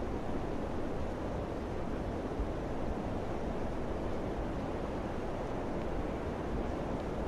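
Wind blowing steadily, a dense low rush without gusts or distinct events.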